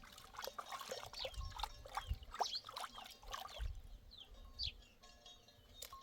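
Chicks peeping in short, high, falling chirps, with scattered light knocks and rustling.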